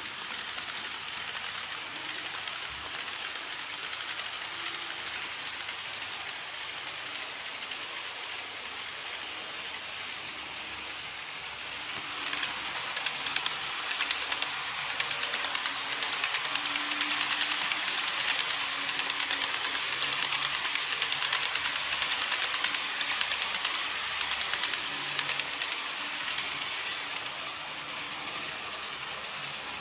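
Model train running along the track, its wheels making a rapid clicking over the rail joints. The clicking grows louder about twelve seconds in as the train comes close, then eases off near the end.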